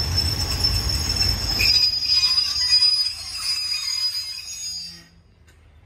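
Passenger train coaches rolling past on the rails, a steady high-pitched wheel squeal over a rumble that eases about two seconds in. The sound cuts off abruptly about five seconds in.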